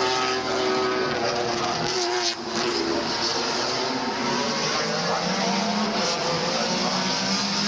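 Two-litre Super Touring race cars running at racing speed, their engines at high revs. The engine note falls in pitch over the first two seconds or so, and another car's engine comes through in the second half.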